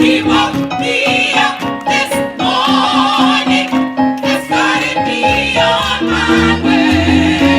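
Live gospel choir singing an upbeat song with instrumental backing: held bass notes under a regular beat.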